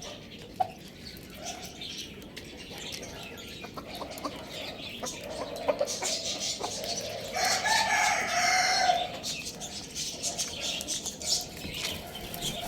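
Chickens clucking with scattered short calls, and a rooster crowing once, about halfway through, in a single call of about a second and a half that is the loudest sound.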